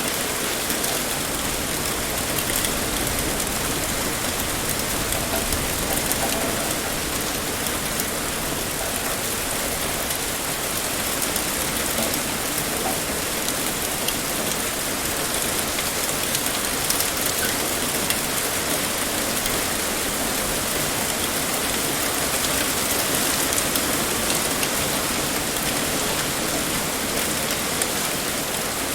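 Heavy rain pouring steadily, a dense even hiss of drops hitting a surface.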